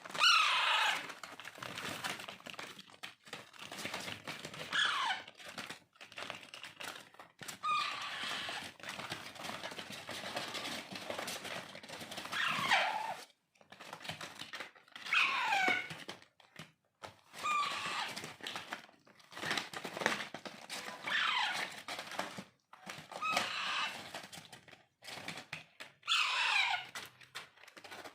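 Alexandrine parakeet chicks calling while being hand-fed: repeated calls that slide downward in pitch every two to three seconds, with noisy chatter between them.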